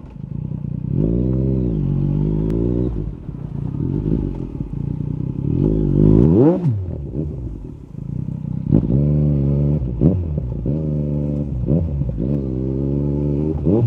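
Yamaha MT-09 SP inline three-cylinder engine through an Akrapovic carbon Racing-Line exhaust, revving up and down repeatedly as the bike accelerates and backs off. There is a sharp climb and drop in revs about six seconds in, and a few short pops off the throttle follow.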